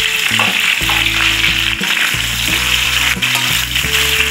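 Mustard greens and garlic sizzling as they fry in a wok, stirred with a metal spatula. Background music with long held notes plays underneath.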